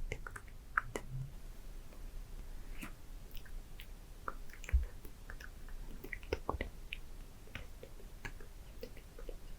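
Close-miked ASMR mouth sounds: scattered wet clicks of lips and tongue, irregular and soft, with a single low thump about five seconds in.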